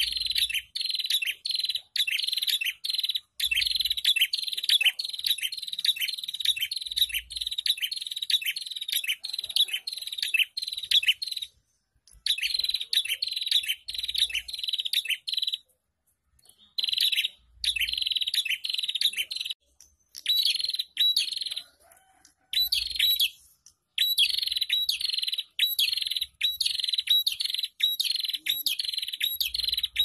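Prenjak, a small cage-kept warbler, calling in fast runs of sharp, repeated chirps, several a second, each run lasting a few seconds with short breaks between.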